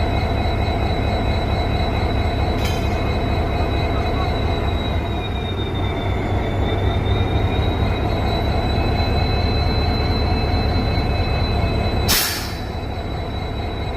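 Railway locomotive running with a steady low rumble and a high, thin whine that sags slightly in pitch midway. A sharp crack comes near the end, after which the sound is quieter.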